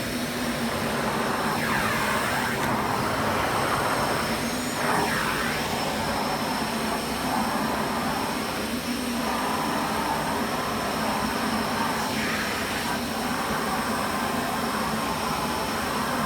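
Kärcher WD5 wet-and-dry vacuum cleaner running steadily with a constant whine and rush of air. The air noise briefly shifts in pitch a few times.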